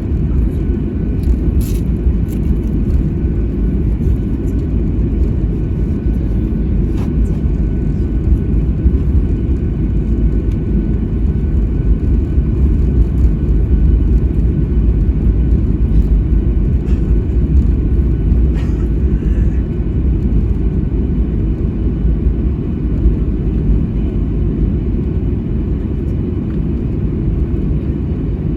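Steady low rumble inside a Boeing 737-800's cabin on the ground before takeoff, its engines running at low power, with a few faint clicks.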